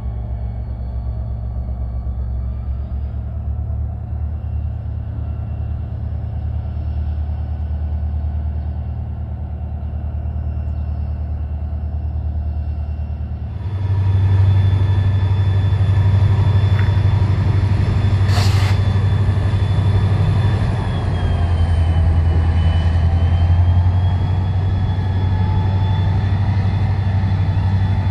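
Wisconsin & Southern diesel freight locomotives crossing a railway bridge: a steady low engine rumble with a thin high whine, growing louder about halfway through as the train comes close. A brief sharp sound stands out around two-thirds of the way in.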